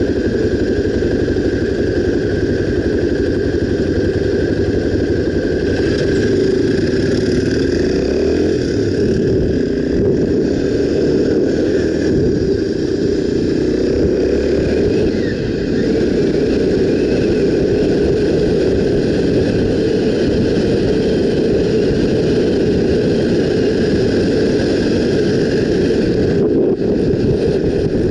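Honda XR 250 Tornado motorcycle's single-cylinder engine running steadily while under way, heard from the bike itself.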